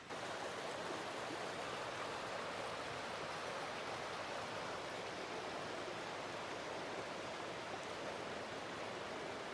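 Mountain stream flowing: a steady, even rushing of water that starts abruptly.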